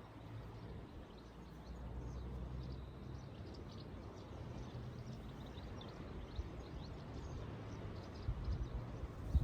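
Outdoor ambience: faint, scattered bird chirps over a steady low rumble, with a few low thumps near the end.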